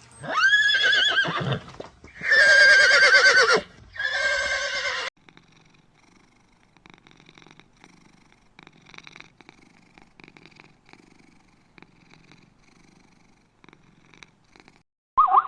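Horse whinnying: three loud, quavering calls in the first five seconds, then only faint clicking and rustling for about ten seconds.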